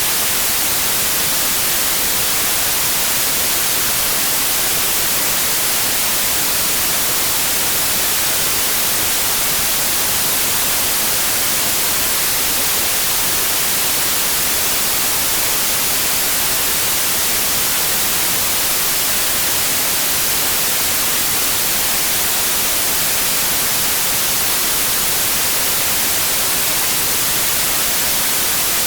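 Steady white noise: an even, unchanging hiss, strongest in the high end, with no tone or rhythm in it.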